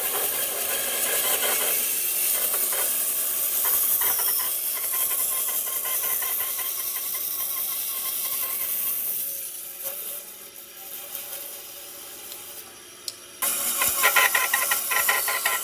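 Woodworking tool noise: a steady hiss of tool work on wood for about nine seconds, then quieter clicks and knocks, then a louder rapid scraping from about thirteen seconds in.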